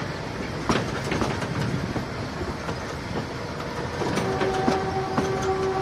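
Narrow-gauge passenger train running, heard from inside an open carriage: a steady rumble with wheels clacking over rail joints. About four seconds in, the locomotive's horn starts a long, steady note that is still sounding at the end.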